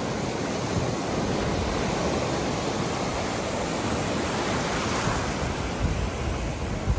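Ocean surf breaking and washing steadily onto the beach, with a brief low buffet of wind on the microphone near the end.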